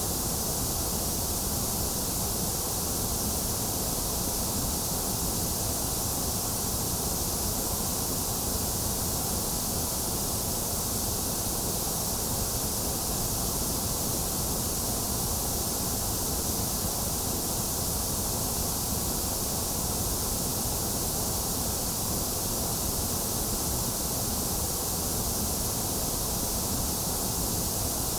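Synthetic white noise playing as a steady, unchanging hiss, with a dip in the middle range around 2 kHz.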